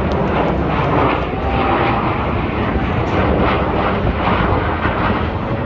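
F-16 fighter jets flying overhead, their jet engines making a loud, steady rushing noise.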